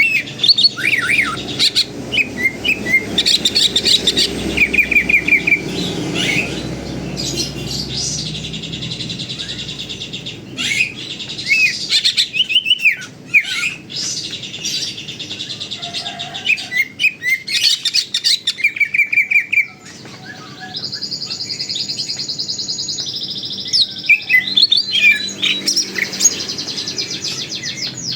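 Green leafbird (cucak ijo) in full, constant song: a fast, varied run of chirps, trills and sweeping whistles, with one long, even trill about three-quarters of the way in.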